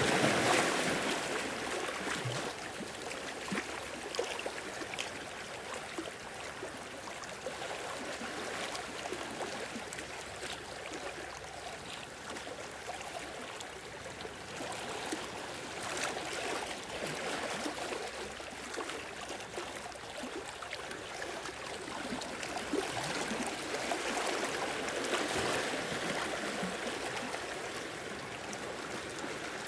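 Sea waves washing in over the shore and draining back with a trickling, gurgling wash. The surge is loudest at the start, eases off through the middle and swells again in the second half.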